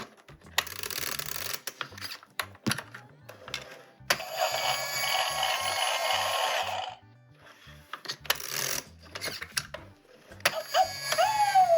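Toy's electronic sound effects and tune playing in short bursts, with plastic clicks and rustling from handling. A falling whistle-like effect comes near the end.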